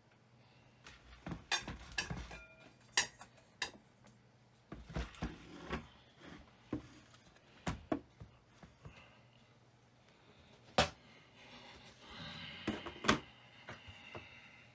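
Tools and parts being handled: scattered sharp clicks and knocks at irregular intervals, with a short scraping stretch about twelve seconds in.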